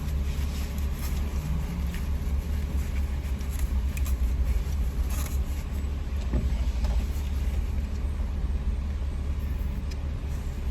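Steady low motor-vehicle rumble, with a few faint ticks over it.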